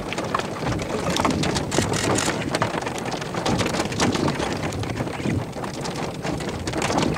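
Rain pelting a vehicle, a dense patter of many sharp drop hits, with wind gusting across the microphone.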